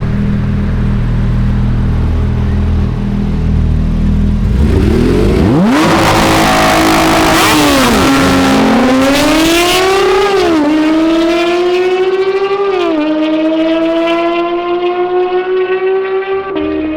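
A sports car's engine rumbling low, then revving, then accelerating hard through the gears. Its pitch climbs steadily and drops sharply at each of three upshifts.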